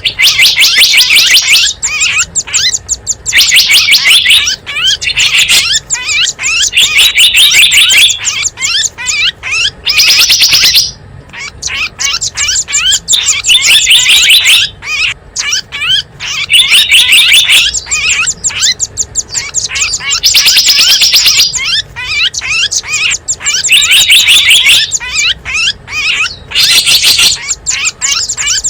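Small songbirds chirping and twittering: bursts of fast, shrill chirps about a second long, repeating every two to three seconds, with fainter twittering between. It is a bird-lure call track played to draw small wild birds in.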